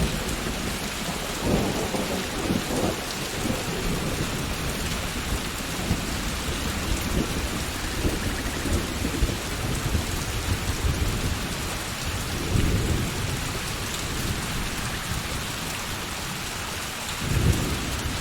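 Steady rain falling and splashing on hard city surfaces, with low rolls of thunder swelling a few times, the loudest near the end.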